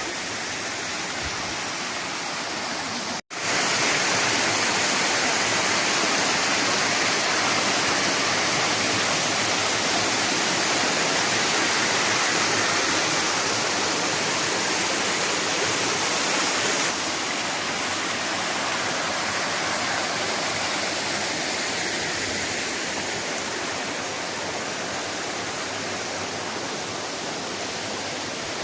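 Waterfall on the Rufabgo river: a steady rush of falling water. It drops out for an instant about three seconds in and comes back louder, then steps down a little around seventeen seconds.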